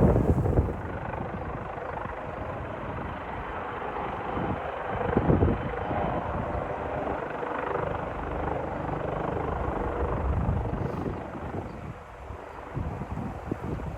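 Leonardo AW139 twin-turbine helicopter running, a steady whirring drone of rotor and engines. Wind buffets the microphone throughout, hardest in the first second and in gusts around the middle and near the end.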